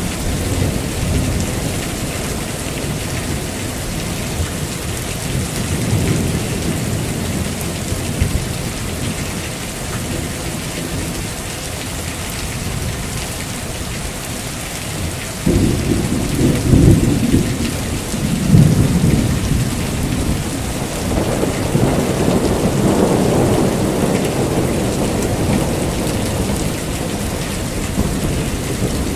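Heavy rain falling steadily through a thunderstorm, with low thunder rumbling. About halfway through, a louder thunderclap breaks in suddenly and rolls on for several seconds before fading back under the rain.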